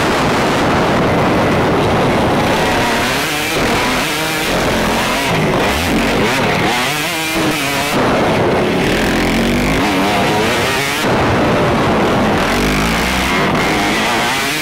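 Motocross bike engine revving up and down repeatedly as the rider rides the track, heard from a headcam with heavy wind rush on the microphone.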